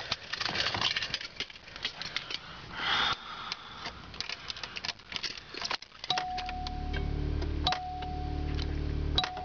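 Keys jingling and clicking, then about six seconds in the 1986 Cadillac DeVille's 4.1-litre V8 catches on a cold start and settles into a steady idle. A steady warning tone sounds over the idle, breaking off and starting again twice.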